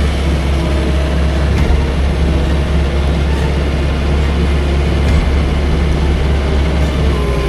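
Manual sawmill's engine running steadily, a loud, even low rumble.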